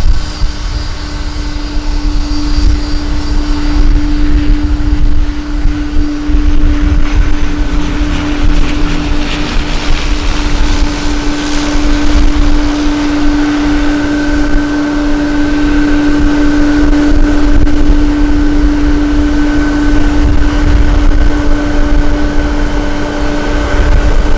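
Airliner engines running with a steady, unwavering tone, under a gusty low rumble of strong wind on the microphone.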